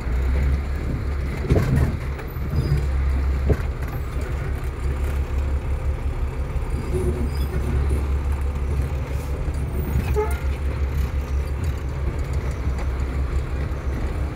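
Fire engine's engine running with a steady low rumble, heard from inside the cab, with a few short knocks in the first few seconds.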